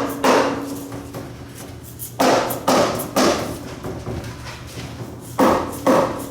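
Small hammer striking the front cover of a 2011 Honda CR-V automatic transmission case to work it loose: about six sharp taps, one near the start, three in quick succession a little past two seconds in, and two more near the end.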